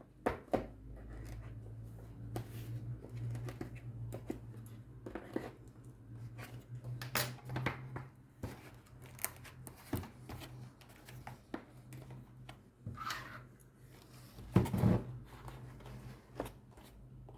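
Hands working at a tightly sealed plastic package to get it open: irregular scratching, clicking and short tearing and rustling sounds, with a louder burst of handling about three-quarters of the way through.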